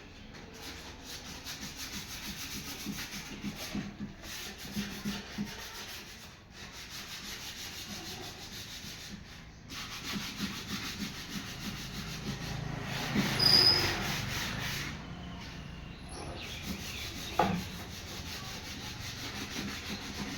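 Hand rubbing strokes on the wooden surface of a carved box bed, as in sanding or rubbing in polish, repeated steadily. The rubbing grows louder for a moment about two-thirds of the way through, and there is a single sharp knock near the end.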